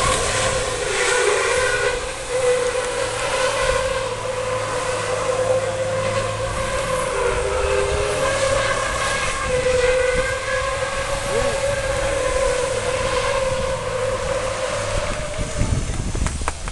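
Truck air horns sounding in one long steady blast, with a second, slightly lower horn joining around the middle; the blast stops near the end.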